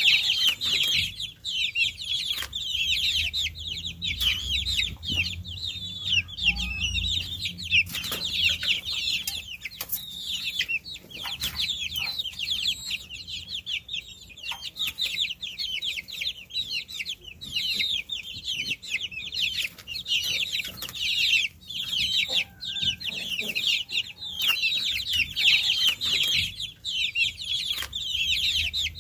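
Many baby chicks peeping together, a dense continuous mass of short high-pitched chirps, with scattered small taps and clicks among them.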